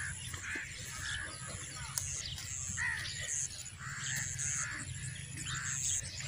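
Birds calling over and over, short arched calls two or three a second, with a few high chirps, over a low steady rumble.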